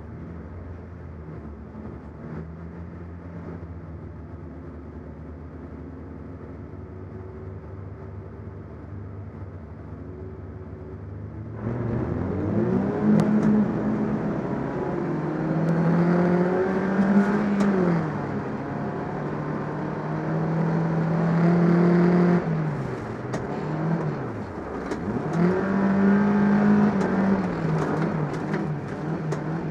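Rear-wheel-drive folk race car's engine heard from inside the car, running steadily while waiting at the start, then going to full throttle about twelve seconds in as the race starts. The revs then climb and fall again and again as it drives, with a few sharp knocks.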